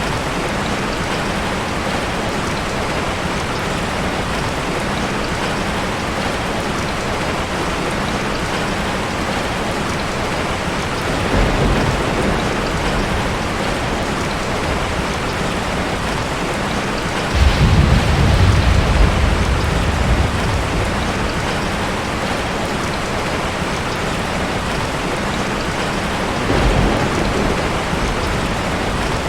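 Steady rain hissing, with low rumbles of thunder three times: briefly about a third of the way in, loudest and longest just past the middle, and briefly again near the end.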